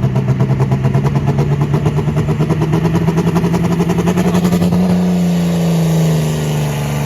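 Pulling vehicle's engine running hard under load with a fast pulsing beat, smoothing out about five seconds in as its pitch eases slightly down.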